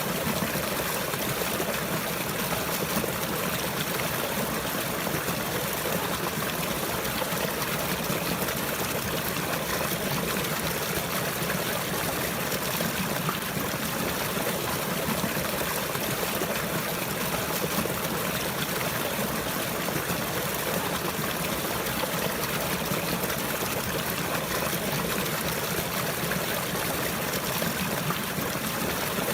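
Running water trickling and flowing in a steady, even wash with no pauses or changes.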